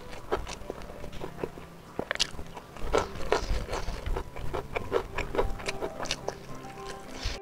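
Close-miked chewing of smoked beef (sei sapi) and rice, with irregular wet smacks and clicks from the mouth, mixed with fingers squishing rice and meat on a banana leaf.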